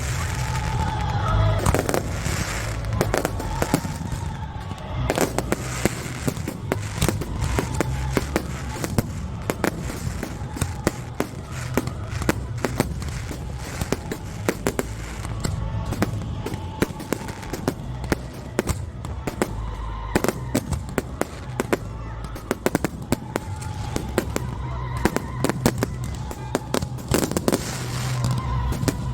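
Fireworks display going off: a dense run of sharp bangs and crackling pops, with music playing underneath.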